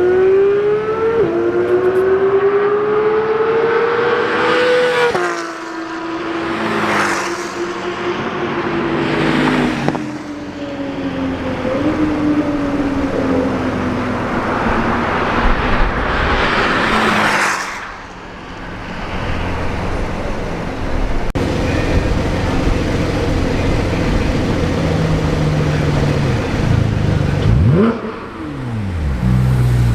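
Sports car engines accelerating hard and passing by: the engine note climbs through a gear change, then falls away as the car goes past, with a few sharp exhaust cracks. Another car passes with a falling note near the end.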